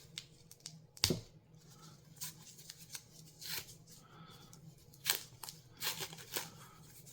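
Faint crinkling and scattered clicks of packing material as a rock specimen is unwrapped and handled, with sharper clicks about a second in and again about five seconds in.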